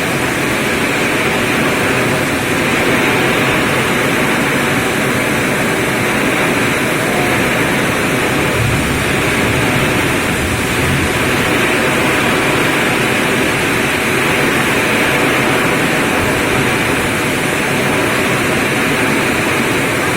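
Strong storm wind: a loud, steady rushing that holds without a break.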